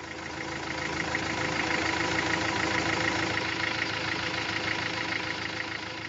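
Truck engine idling steadily with a fast, even pulse, fading in at first and starting to fade out near the end.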